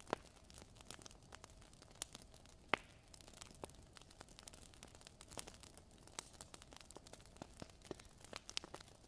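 Wood fire crackling in a fireplace: irregular small snaps and pops over a faint hiss, with a louder pop just after the start and another just under three seconds in.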